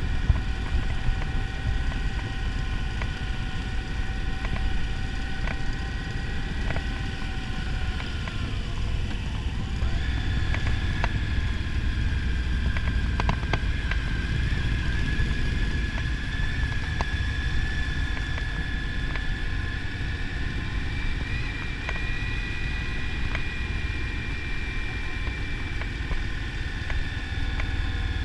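Motorcycle riding at speed: heavy wind buffeting on the microphone over a steady engine whine, which dips in pitch about eight seconds in and picks up again a couple of seconds later.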